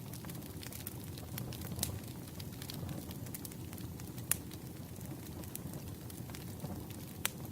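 Campfire crackling: a low steady rumble of burning wood with scattered sharp pops and snaps, the loudest about four seconds in and again near the end.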